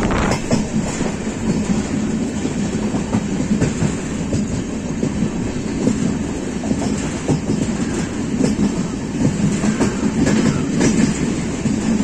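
A moving train heard from on board: a steady rumble of the wheels on the rails, with irregular clicks and clacks as they run over rail joints.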